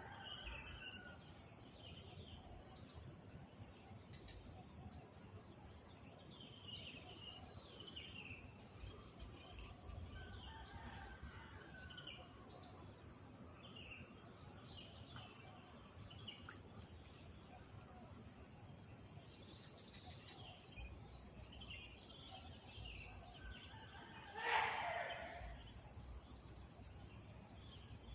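Rural outdoor ambience: small birds chirping faintly and on and off over a steady high insect drone, with one louder, brief call a few seconds before the end.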